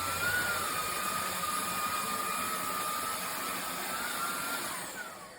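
Fieety cordless stick vacuum running: a steady high motor whine over a rush of air. Near the end it is switched off, and the whine falls in pitch as the motor winds down.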